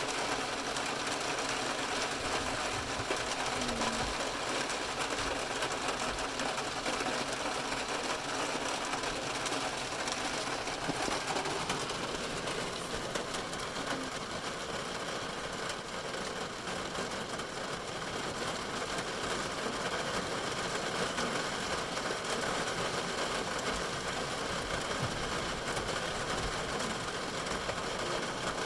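Heavy rain drumming steadily on a car's roof and windows, heard from inside the car as a dense, even patter of countless rapid drops.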